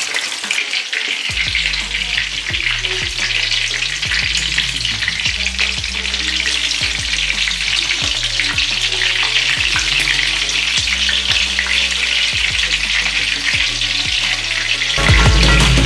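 Shrimp spring rolls (lumpia) frying in hot oil in a frying pan: a steady sizzling hiss full of small crackles, with the rolls turned over in the oil partway through. The rolls are golden brown and nearly done.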